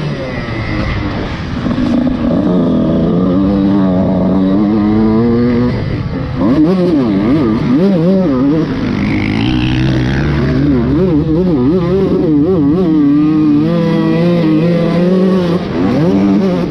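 Honda CR125 two-stroke motocross bike engine being ridden, its pitch climbing and dropping over and over with throttle and gear changes, quickest in the second half.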